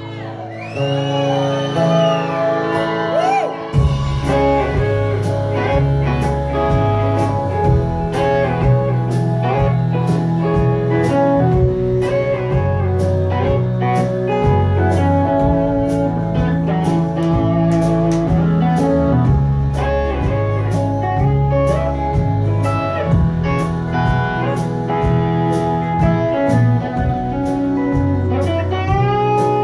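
Live rock band's instrumental break: a slide guitar plays gliding notes, then bass and drums come in with a steady beat about four seconds in and the band carries on under the guitar lead.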